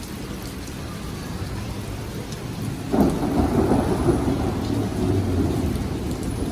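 Heavy rain falling steadily; about three seconds in, a thunderclap breaks and goes on as a long rumble of thunder.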